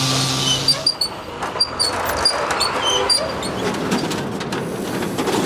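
Busy city ambience: a steady low hum cuts off about a second in, then comes a mix of traffic-like noise and many short, high chirps.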